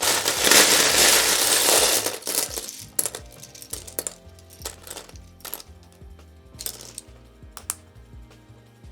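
Loose LEGO pieces rattling as a hand rummages through them for about two seconds, then scattered sharp clicks of pieces being picked up and handled, over background music.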